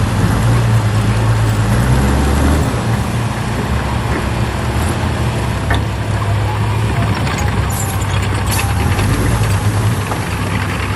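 Heavy diesel engine of earthmoving machinery running steadily, a little louder for the first two and a half seconds, then settling, with a few faint metallic ticks later on.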